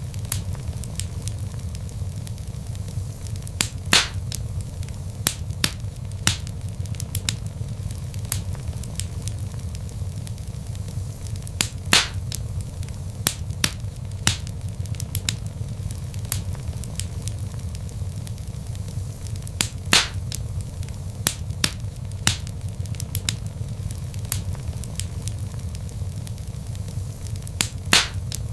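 Log fire in a fireplace crackling: many small pops and snaps, with a louder pop about every eight seconds, over a low steady rumble of the flames.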